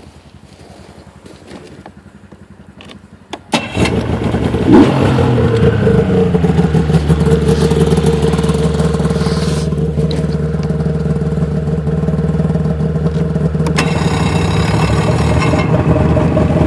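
Small vehicle engine cold-started about three and a half seconds in. It catches at once and settles into a steady idle.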